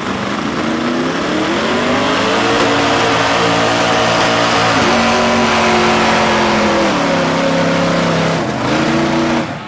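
Truck engines revving hard and held at high revs under load in a truck tug of war. The pitch climbs over the first couple of seconds, drops and holds lower twice, climbs once more, then falls off just before the end.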